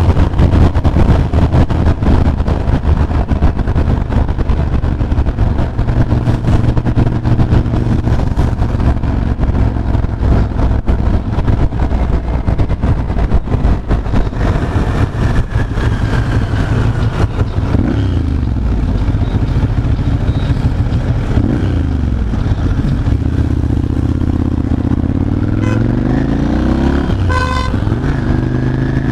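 Ducati Monster 796's air-cooled L-twin engine running at highway speed with heavy wind noise on the microphone. About two-thirds of the way in the wind eases and the engine revs rise and fall through gear changes, and a vehicle horn toots briefly twice near the end.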